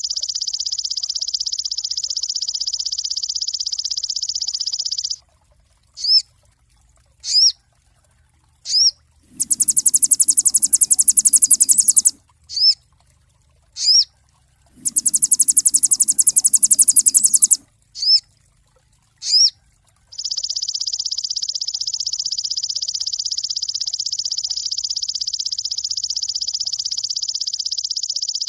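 Sogon songbird singing. A long, rapid, high trill gives way at about five seconds to single sharp down-hooked whistle notes, each a second or so apart. Between these notes come two harsh, very high rattles of about three seconds each, and the rapid trill returns for the last eight seconds.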